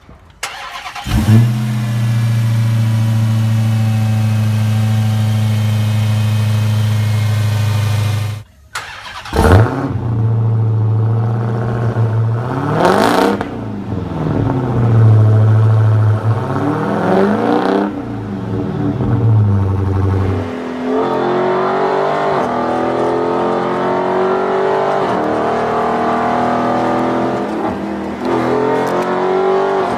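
A muscle car's engine starts about a second in and runs steadily. After a brief cut it starts again and is revved up and down several times. From about two-thirds of the way through, an engine is heard under way with a shifting, uneven pitch.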